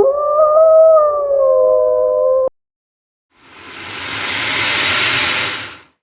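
A dog howling: one long note that rises and then holds, cut off abruptly partway through. After a short gap comes a rush of noise that swells and fades.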